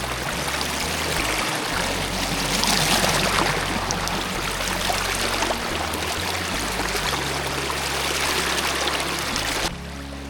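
Heavy rain and running rainwater: a loud, dense, steady hiss of falling water flecked with countless small drop ticks, which cuts off abruptly near the end.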